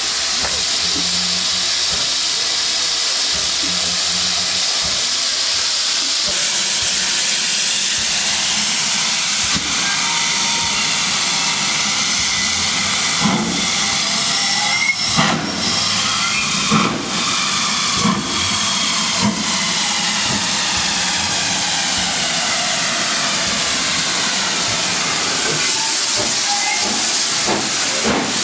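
Steam-hauled train passing at speed, with GWR Castle-class 4-6-0 5029 Nunney Castle at its head: a continuous rushing hiss. Sharp wheel clicks over rail joints come in the middle, and a quick run of clickety-clack sets in near the end.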